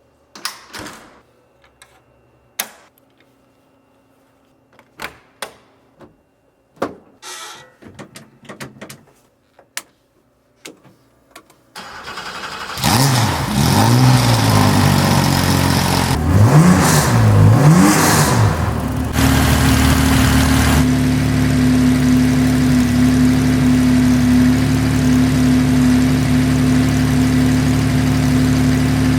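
Scattered clicks and knocks for about twelve seconds. Then the 3.0-litre flat-six of a 1978 Porsche 911SC Spec 911 race car, with PMO throttle-body injection and a Phase 9 exhaust, cranks on the starter and catches. It is revved up and down twice, then settles into a steady, loud idle.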